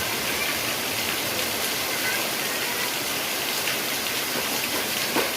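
Heavy rain falling steadily, a dense even hiss, with a brief louder tap near the end.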